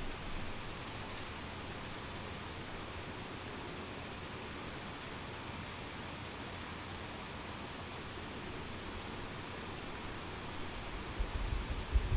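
Heavy rain falling steadily, an even hiss. Near the end a few low bumps of rumble rise beneath it.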